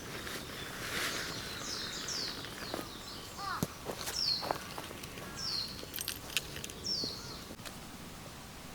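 A bird outdoors repeating a short, high call that falls in pitch, several times about once a second, over rustling and a few sharp clicks.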